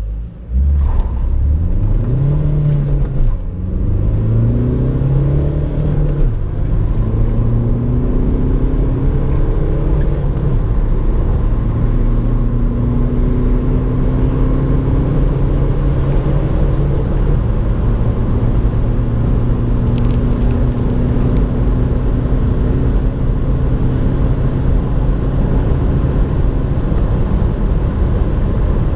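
Opel Astra's 1.6 BiTurbo CDTI four-cylinder diesel accelerating hard: the engine note climbs, drops back at two quick upshifts in the first several seconds, then rises slowly and steadily under a constant rush of road and wind noise as the car gains high speed.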